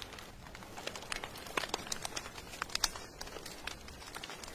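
Wood fire crackling, with irregular sharp pops of varying loudness, a couple of them louder, over a soft steady hiss of rain.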